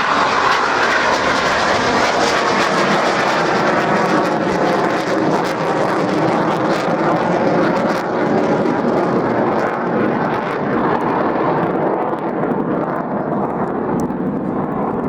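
Aircraft engine noise just after takeoff: a loud, steady rush that fades and grows duller over the last few seconds as the aircraft climbs away.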